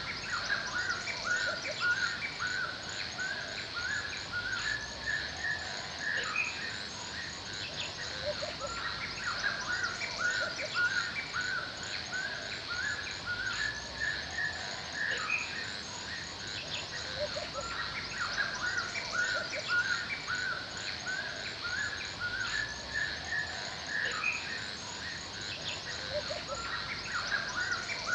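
Forest ambience: many birds chirping and calling in short, overlapping notes, over a steady high-pitched insect drone with a fast, even ticking.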